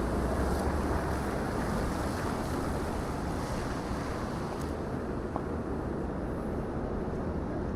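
Steady rushing wind noise on the microphone, with the dull wash of a city street during a snowstorm beneath it.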